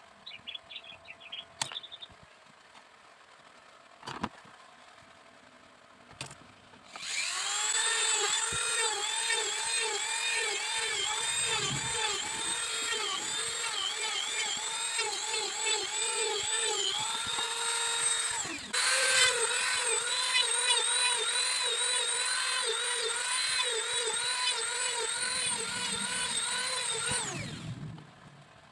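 A small handheld electric power tool, a drill-type motor, runs at high speed on bamboo. Its whine sags in pitch again and again as it bites under load. It stops briefly about two thirds of the way in, starts straight up again and stops near the end, after a few light clicks at the start.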